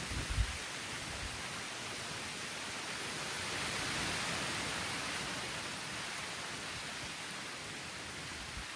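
Light rain falling steadily in a forest, an even hiss, with a brief low thump about half a second in.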